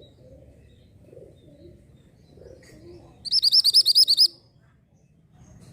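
An orange mantenan songbird calling: one quick, high trill of about nine rapid repeated chirps, lasting about a second, a little past the middle.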